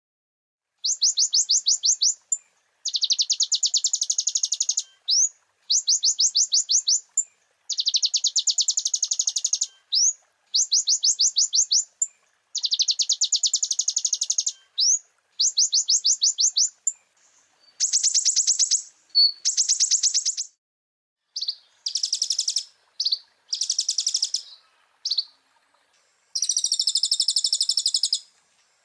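Konin (kolibri ninja sunbird) song, as used in a training recording: high, fast trills of about eight notes a second, each a second or two long, repeated with short pauses. The song turns to shorter varied phrases and then a longer warbling phrase near the end.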